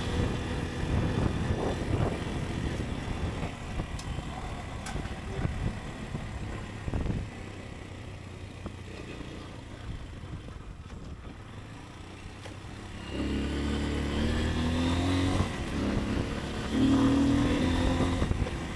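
Motorcycle engine heard from the rider's seat, easing off so that it runs quieter through the middle, then accelerating hard about two-thirds of the way in and revving up again near the end.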